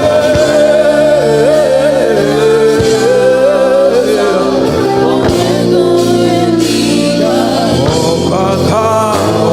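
Gospel worship music: a singer holding and bending long wordless notes over sustained keyboard and band accompaniment.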